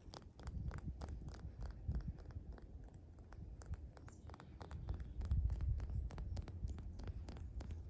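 Many small crackling clicks over a low, uneven rumble, close to the microphone.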